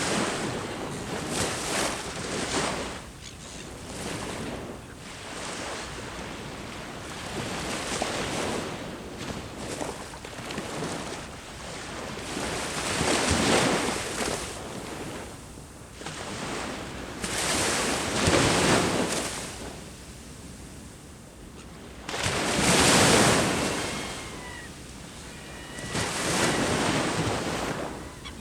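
Ocean waves breaking on the shore, each one swelling and washing back, a new surge every few seconds; the biggest break comes a little past three-quarters of the way through.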